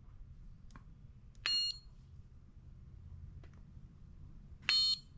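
Two short, high-pitched electronic beeps about three seconds apart, with a few faint clicks between them.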